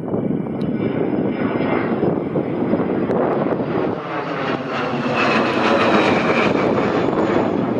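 Engines of an airliner passing close by on the runway, a loud roar that builds to its loudest about six seconds in, with a faint high whine on top.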